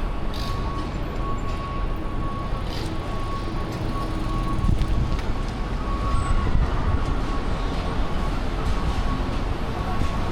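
Steady low rumble of a passing vehicle, with a thin, steady high whine running through it.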